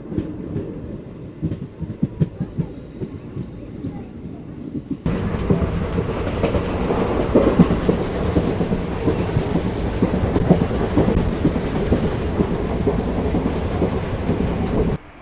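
A DEMU passenger train running at speed, heard from beside the coach: wheels clicking over rail joints under a rumble, then about five seconds in a much louder, steady rush of running noise that cuts off abruptly near the end.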